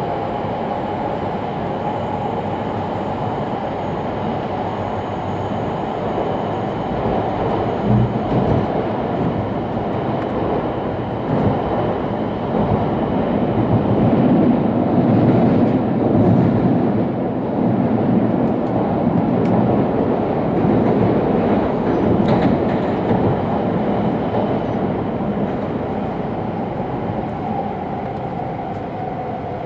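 E2 series Shinkansen running noise heard inside the passenger car: a steady rumble of wheels and car body, swelling midway, with a faint motor whine that shifts in pitch near the start and again near the end.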